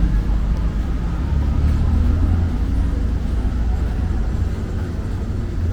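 Road traffic on a busy city street: a steady low rumble of passing vehicles.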